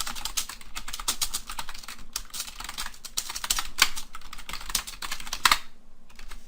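Mechanical keyboard being typed on: fast, dense key clicks with a few heavier strokes, the typing stopping about a second before the end.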